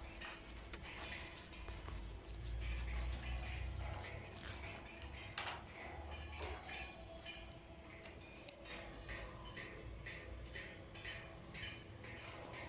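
Screws of a pipe repair clamp being tightened by hand, giving light, irregular metallic clicks and clinks, with a low rumble of handling about two seconds in.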